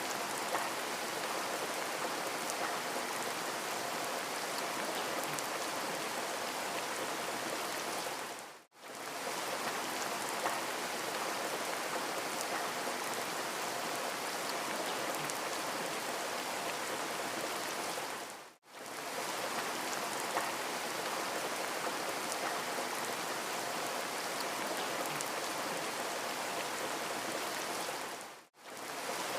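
Steady rain falling, an even hiss with fine patter of drops. The sound dips out and back in briefly three times, about every ten seconds.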